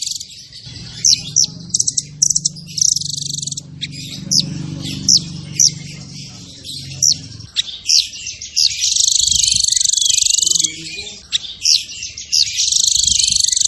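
Songbird song: rapid, sharp chirps and whistled notes, broken by two long, fast trills, the first about nine seconds in and the second near the end.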